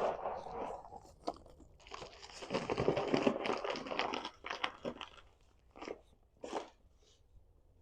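Crunching and rattling of cat food, heaviest for about three seconds in the middle, then a few short separate crunches near the end.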